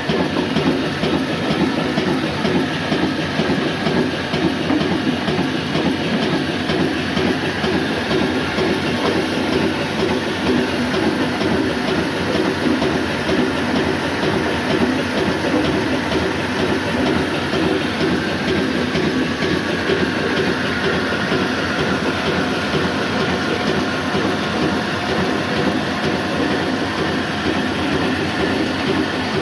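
Old black diesel oil engine running steadily under load, driving a flour mill, with a continuous rhythmic clatter of engine and mill machinery.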